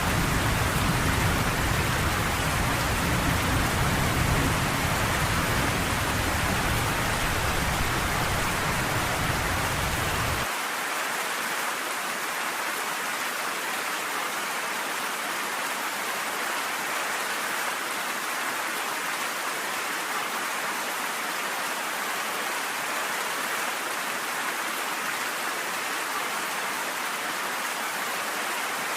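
Steady heavy rain, with a deep low rumble underneath that cuts off suddenly about ten seconds in, leaving the rain alone.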